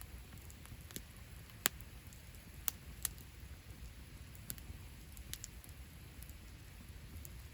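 Wood campfire crackling: scattered sharp pops and snaps, the loudest about a second and a half in, over a low steady rumble.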